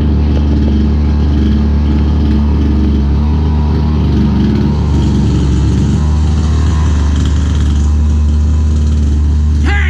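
Two-stroke gas chainsaw engine running at a steady speed.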